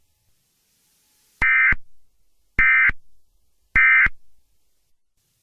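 Emergency Alert System End-of-Message signal: three short, identical buzzy bursts of SAME digital data tones, about a second apart, marking the end of the alert.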